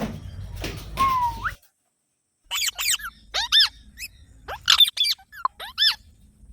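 Green parrots calling: a single rising call about a second in, then, after a short gap, a quick run of short, sharp, shrill calls, about eight in three seconds.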